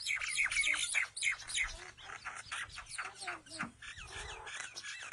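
Birds chirping: a rapid, continuous run of short, sharp chirps, several a second.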